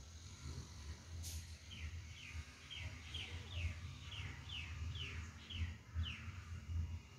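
A bird calling in a series of about ten short chirps, each falling in pitch, roughly two a second, over a low rumble. A single sharp click sounds just before the chirps begin.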